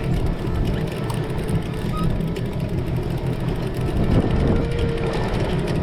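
Small fishing boat's motor running steadily with a low, even rumble while the boat is manoeuvred.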